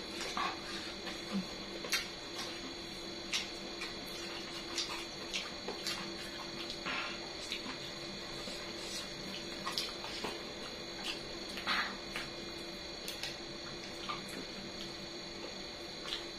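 Close-miked wet chewing and sucking on chicken feet, with irregular lip smacks and clicks. A steady faint hum runs underneath.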